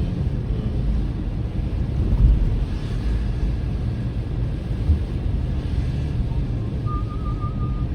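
Steady low rumble of a car driving, heard from inside the cabin, with road and tyre noise. About seven seconds in, a faint, wavering high tone begins.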